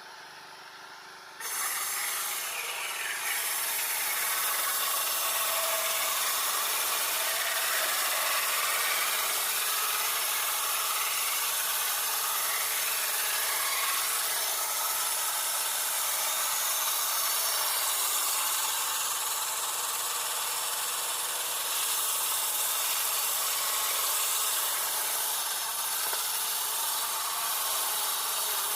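Small power-saw sawmill ripping a 2x6 board lengthwise into 2x2 strips: the saw starts cutting about a second and a half in and runs on steadily through the wood.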